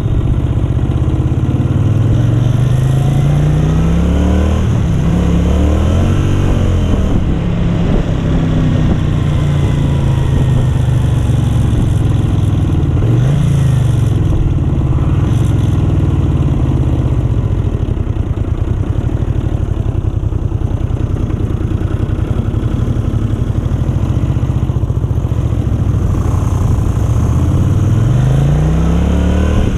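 1970s Honda 350 motorcycle engine running under way, its note climbing and dropping several times as it is revved up and shifted.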